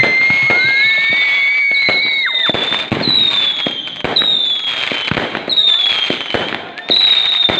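Fireworks going off in quick succession: dense pops and crackles, with whistling shells. One long steady whistle runs for the first two seconds or so, then a falling whistle sounds about once a second.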